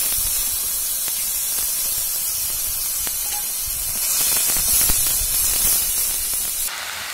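Onion, ginger and garlic pastes sizzling in hot oil and ghee in a metal karai, stirred and scraped with a metal spatula. A steady hiss grows louder about four seconds in, then drops suddenly near the end.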